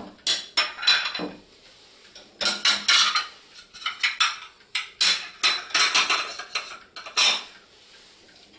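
Dishes and cutlery clattering in repeated bursts as a dishwasher is unloaded, opening with a sharp knock; the clatter dies away near the end.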